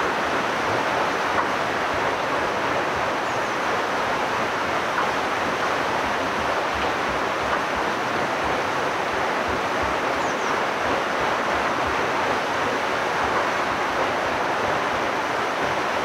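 Steady rushing water at a water mill's wheel on a brook, with an uneven low rumble underneath. Two faint high chirps, about three and ten seconds in.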